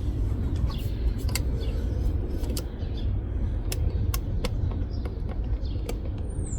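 Outdoor background: a steady low rumble with scattered sharp clicks and taps, and a single high, falling bird chirp near the end.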